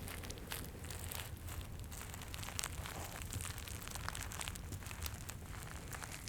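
Irregular crinkling and crackling as a Santa figure in a crackly wrapper is squeezed and handled, many small sharp crackles one after another. A steady low fireplace ambience runs underneath.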